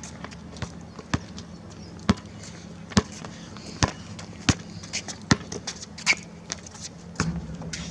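Basketball dribbled on an outdoor court: sharp bounces a little under a second apart, with lighter taps and clicks in between.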